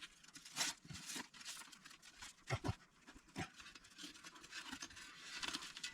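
Faint handling noise of exhaust repair tape being fitted onto a muffler pipe: a few scattered light rustles and small knocks over a quiet background.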